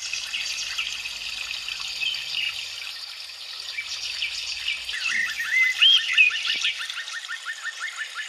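Many birds chirping and singing over a steady hiss like running water. In the second half one bird repeats a short note rapidly, about five times a second.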